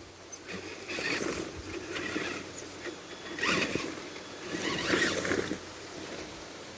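Tamiya TXT-2 RC monster truck crawling through brush, with crackling and rustling of sticks and leaves under its tires, coming in several surges about a second apart.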